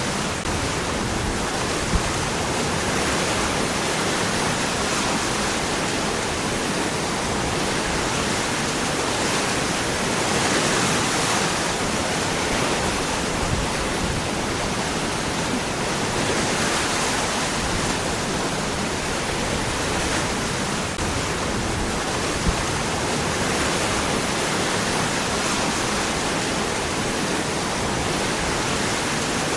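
Waterfall, water falling and running among rocks in a steady, unbroken rush. Two brief clicks stand out, one about two seconds in and one about three quarters of the way through.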